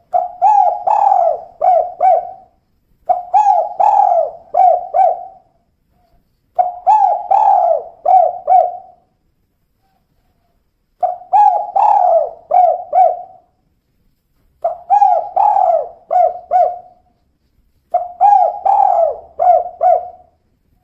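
Spotted dove (tekukur), a female, cooing its 'kuk 2' call. It gives six phrases, each a run of four or five low coos lasting about two seconds, with short pauses between the phrases.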